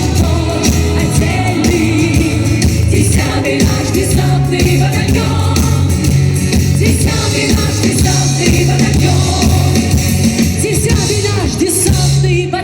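A women's vocal ensemble sings over loud instrumental accompaniment with a steady bass line.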